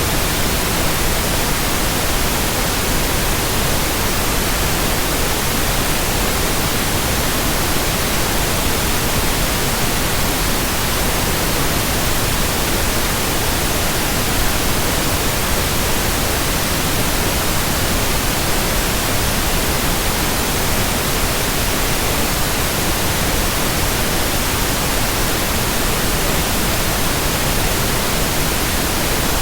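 Steady white noise: an even, unchanging hiss that does not vary.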